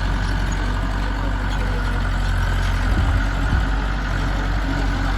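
Heavy diesel engine running steadily with a deep, even hum, with a couple of faint knocks about three seconds in.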